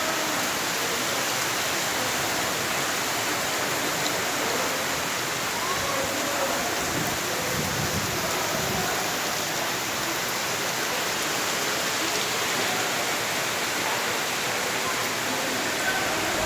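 Steady rain from Cyclone Fani falling without a break, an even hiss of water.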